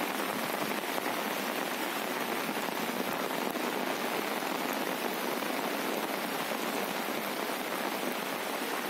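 Heavy rain pouring steadily, one even wash of sound without breaks.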